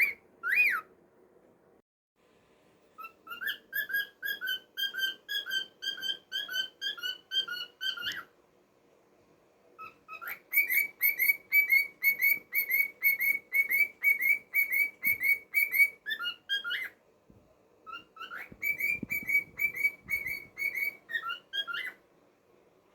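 Cockatiel whistling: two short rising whistles, then three long runs of quick repeated whistled chirps, about four a second, with short pauses between the runs.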